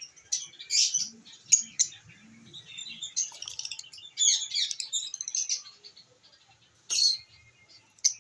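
Lovebirds chirping and chattering: sharp high chirps, a quick run of overlapping chatter in the middle, and two loud shrill calls near the end.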